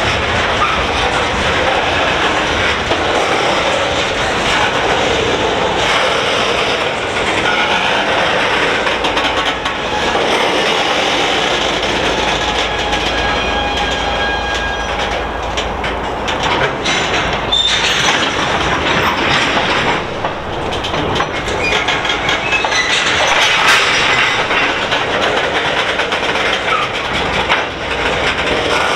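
Freight train tank cars rolling past, wheels clicking over rail joints over a steady rumble. Faint wheel squeal comes in about halfway through.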